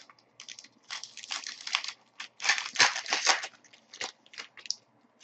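Hockey card pack wrapper being torn open and crinkled by hand: a string of irregular rustling bursts for about four seconds, thinning to a few short crinkles near the end.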